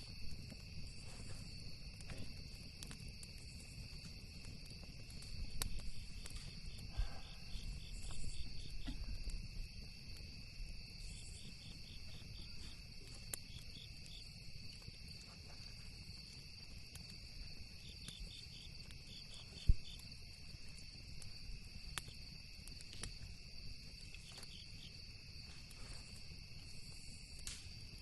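Crickets chirping steadily in several overlapping high trills and pulsed chirps. A campfire crackles over them with scattered small pops, and one sharp, much louder pop comes about two-thirds of the way through.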